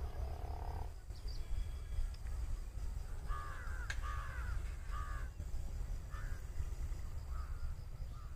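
A bird calling repeatedly, a series of short harsh arched notes about a second apart that begin a few seconds in and grow fainter, over a steady low rumble of wind on the microphone. A single sharp click comes just after the calls begin.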